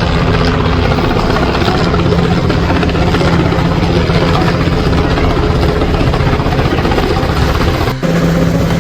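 A helicopter running close by, its engine and rotor making a loud, steady low tone over a heavy rush of noise, broken briefly near the end.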